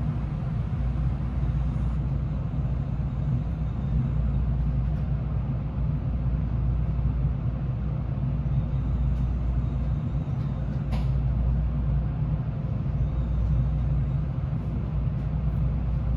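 Steady low rumble and hum inside a Tokaido Shinkansen N700A car, with a single sharp click about eleven seconds in.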